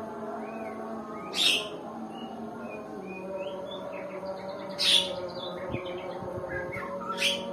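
White-rumped shama (murai batu) giving scattered calls rather than full song: three loud, harsh calls about three seconds apart, with a few short soft whistled notes between them. This is typical of a shama that is reluctant to sing.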